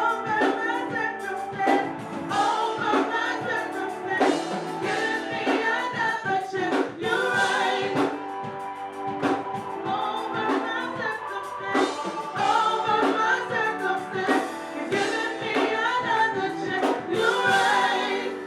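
Gospel choir singing with band accompaniment, drum strikes keeping the beat.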